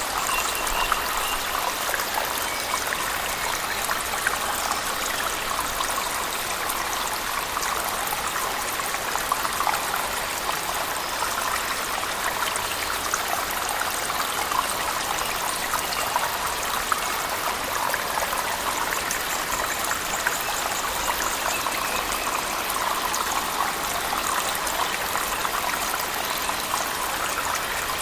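A cave waterfall and heavy rain: a steady rush of falling water with a dense patter of drops.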